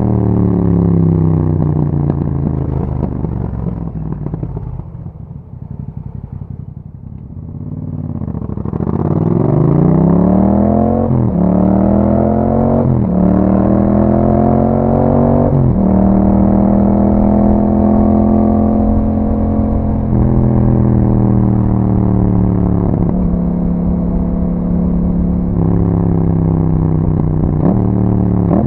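Yamaha MT-07 parallel-twin engine through an Akrapovic exhaust. It slows off the throttle to a low ebb, then accelerates hard, its pitch climbing and dropping sharply at three quick upshifts, and settles into a steady cruise.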